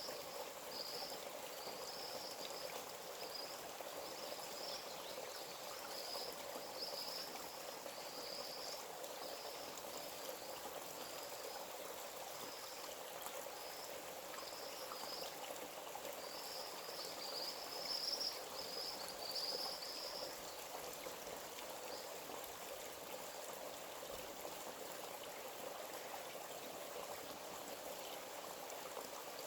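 A forest stream flowing steadily over stones, with a series of short high chirps repeating through the first two thirds or so and again near the end.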